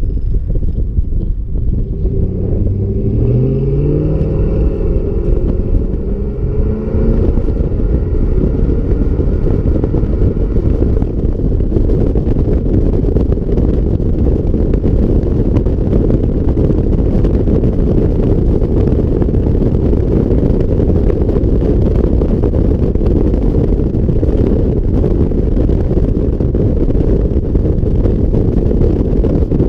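Ford F-150 V8 exhaust climbing in pitch as the truck accelerates over several seconds. It then settles into a steady loud drone with wind buffeting the microphone.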